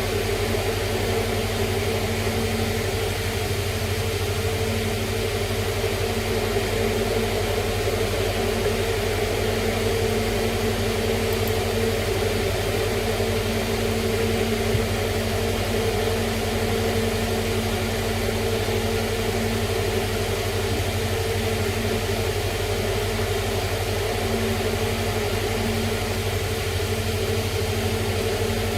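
A steady, unchanging machine hum with a low drone.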